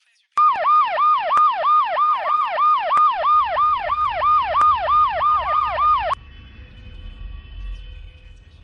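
Police car electronic siren on a fast yelp: a quick string of falling sweeps, about three or four a second, that starts suddenly and cuts off abruptly about six seconds in. A low rumble continues after it stops.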